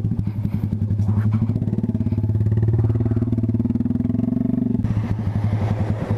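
Small single-cylinder motorcycle engine running at low riding speed, its exhaust pulses steady. The pitch rises a little midway and eases off about three quarters through.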